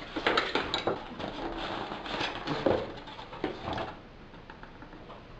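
Clicks, knocks and scraping from refrigerator parts being handled and taken apart, a busy clatter for about four seconds that then quiets down.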